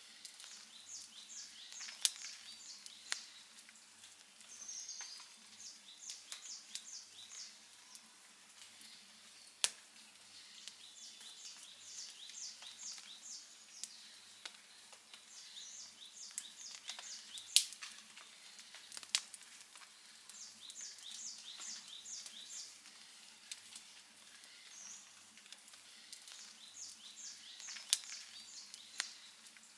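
Outdoor wood fire crackling, with a handful of sharp pops standing out above the soft crackle, the loudest about halfway through. Short runs of high, rapid chirps from a bird or insect repeat every few seconds over the fire.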